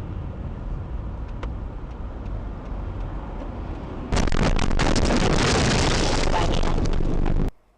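Car dashcam audio: a steady low rumble of engine and road, then about four seconds in a sudden much louder rushing noise for about three seconds, which cuts off abruptly.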